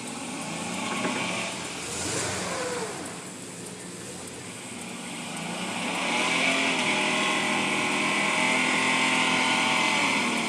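Truck engine revving hard while the tyres spin in deep mud, trying to pull free. The revs rise and fall briefly, then are held high and loud from about six seconds in until they drop off right at the end.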